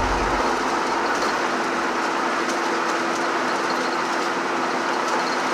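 Steady rushing road noise of a vehicle in motion, with a faint steady hum.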